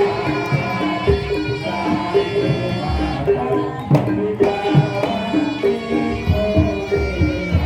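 Javanese gamelan music for an ebeg (jaranan) horse dance: hand-drum strokes from the kendang over short, repeated metallophone notes, with a held high melody line above.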